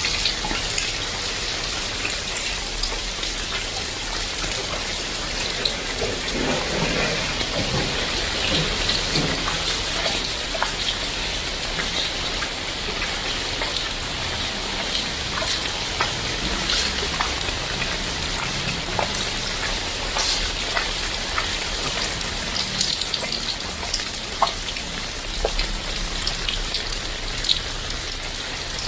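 Heavy tropical rain falling steadily, with many individual drops tapping sharply close by.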